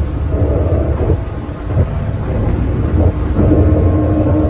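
Electric commuter train running, heard from inside the carriage: a steady low rumble of wheels on rail with a constant hum running over it.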